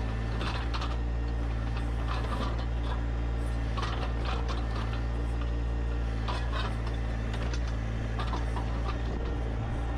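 An engine running steadily, with short bursts of higher-pitched noise every second or two.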